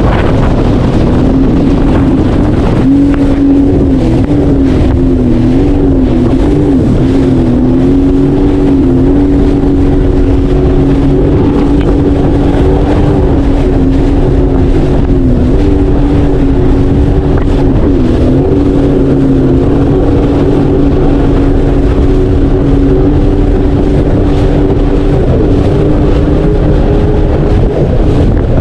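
Three-seater Sea-Doo jet ski engine running steadily while underway, its note dipping and rising slightly a few times.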